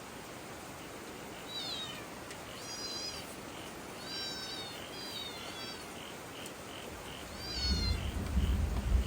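A small animal's high cries, about five of them, each falling in pitch, over a faint chirping about twice a second. A low rumble comes in near the end.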